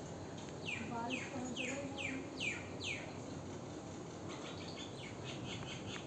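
A bird calling: a series of six high whistled notes, each falling in pitch, about half a second apart, then a quicker run of short chirping notes about four seconds in.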